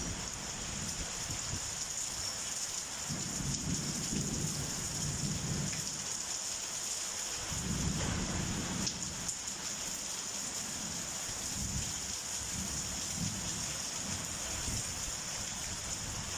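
Heavy rain falling steadily in a summer thunderstorm, a constant hiss, with low rumbles of thunder swelling about three seconds in and again about eight seconds in.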